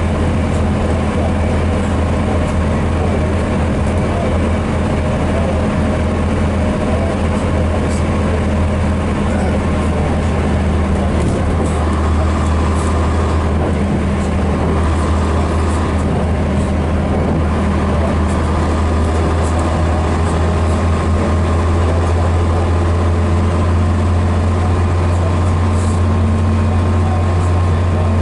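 Scania DS11 diesel engine of a Scania BR111DH/MCW Metropolitan double-decker bus running steadily, its low note holding constant.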